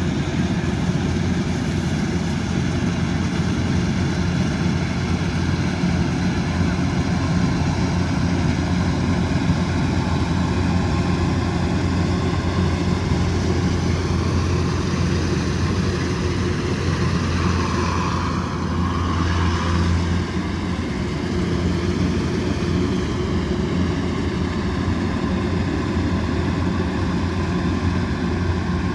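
Kubota DC108X combine harvester running steadily under load: a continuous low diesel drone with a machinery whine above it. About two-thirds of the way through, the higher part of the sound shifts briefly.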